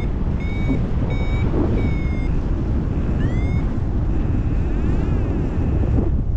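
Paragliding variometer beeping over steady wind rush on the microphone: three short high beeps in the first two seconds, a rising chirp a little after three seconds in, then a steadier warbling tone for about two seconds. The beeps are the instrument signalling lift in the ridge band.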